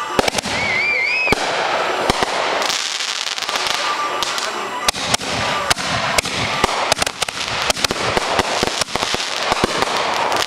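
Fireworks bursting overhead in a fast, irregular string of bangs and crackles that grows denser through the second half.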